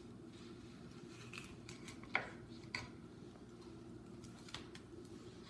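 A sharp knife cutting through a dragon fruit, with a few faint clicks and taps of the blade against the board.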